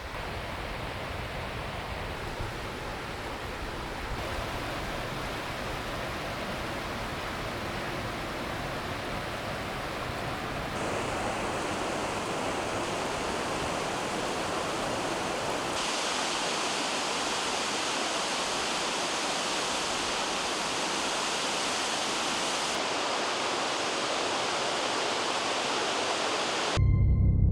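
Waterfall: the steady, even rush of falling water. Its tone and loudness change abruptly a few times, as the footage cuts between shots. Near the end it gives way to a louder low rumble.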